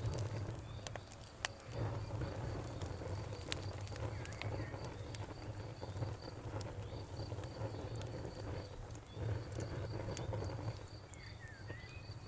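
Campfire wood crackling with scattered sharp pops, over crickets chirping in a steady rapid pulse. A bird gives a few short chirps near the end.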